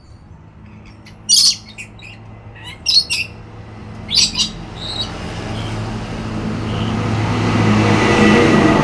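A lory gives three short, shrill squawks about a second and a half apart. Over the second half a rushing noise with a low hum builds up and is loudest near the end.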